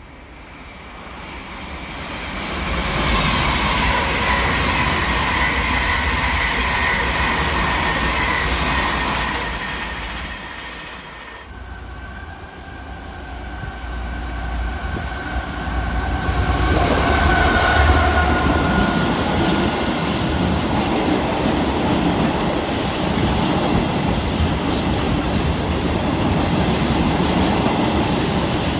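A train passes at speed, its noise building to a loud steady rush. After a sudden cut, a DB Class 66 diesel locomotive comes through hauling a train of empty flat freight wagons, followed by the steady heavy rumble of the wagons rolling past.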